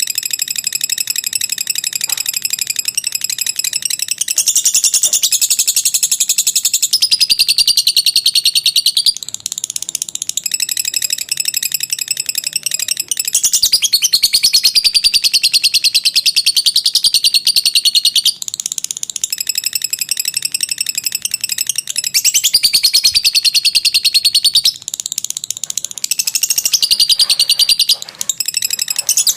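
Lovebird singing its long 'ngekek' song: a rapid, high-pitched chattering trill held in long phrases of several seconds, with brief breaks between them.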